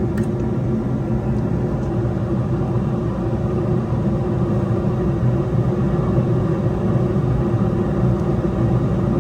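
Steady low rumble of a running machine with a faint hum, unchanging throughout.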